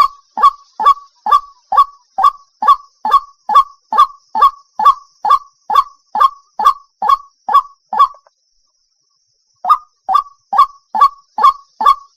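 White-breasted waterhen call used as a lure: a rapid, even string of short calls, a little over two a second. The calls break off for about a second and a half some eight seconds in, then start again at the same pace.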